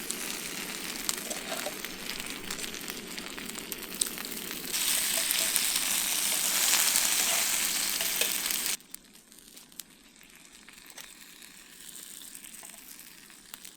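Gyozas sizzling in a pan on a camp stove, the water added to steam them boiling off in a steady hiss. The hiss grows stronger about five seconds in, then cuts off suddenly to a much quieter sizzle about nine seconds in.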